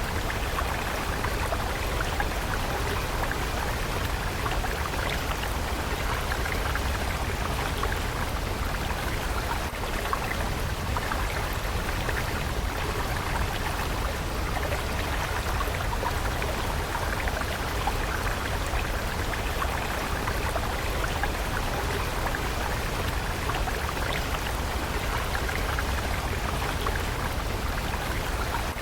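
A water stream running steadily: a continuous babble of small splashes over a low rumble.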